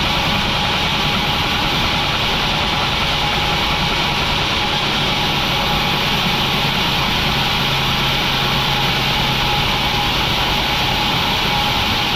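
Sawmill machinery running steadily, a constant hiss with a steady hum. The low part of the hum drops out about eleven seconds in.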